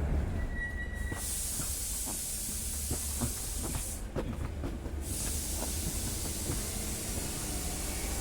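Steady rain hiss with scattered light drips and a constant low rumble; the high hiss drops out briefly near the start and again about four seconds in.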